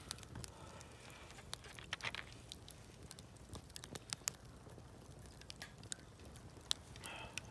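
Wood campfire crackling faintly, with irregular sharp pops and snaps scattered through it.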